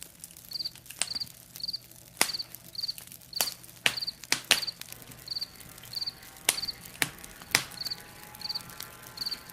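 Crickets chirping in short regular bursts about twice a second, over the irregular sharp pops and crackles of a campfire.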